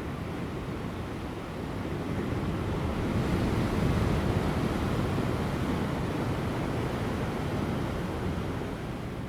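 Ocean waves breaking on offshore rocks: a continuous rush of surf that swells about two seconds in, is loudest around four seconds, and slowly eases off.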